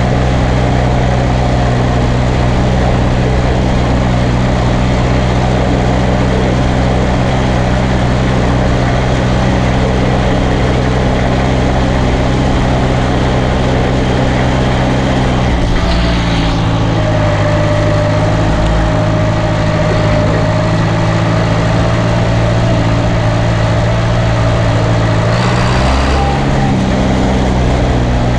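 Straight-piped John Deere 2030 tractor engine running steadily. Its note shifts slightly about halfway through and again near the end, with a faint whine in between.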